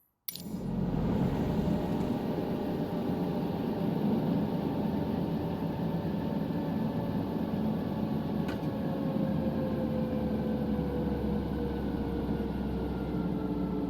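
Helicopter engine and rotor noise as heard in the cabin, steady and loud, starting suddenly just after the beginning, with a whine that slowly falls in pitch.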